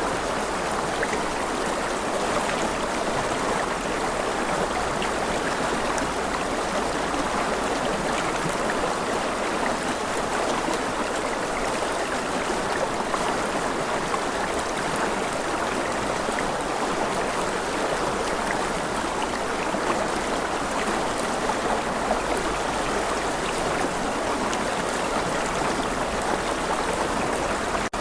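Steady, unbroken rush of running water from a stream.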